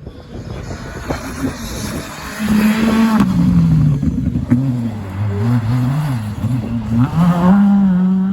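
Rally car engine working hard through a stage, its note dropping about three seconds in, wavering as it changes revs, then climbing again near the end, with a few sharp cracks along the way.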